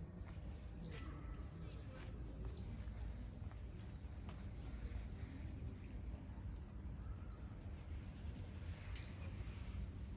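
Small birds chirping, many short high calls one after another, over a steady low rumble of outdoor background noise.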